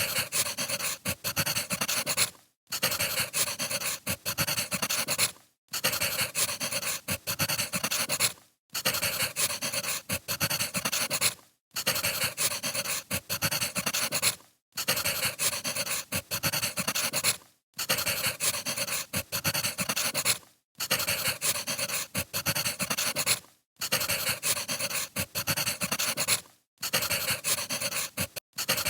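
Wood fire crackling, a dense run of pops and snaps that breaks off for a moment about every three seconds, like a short loop repeated.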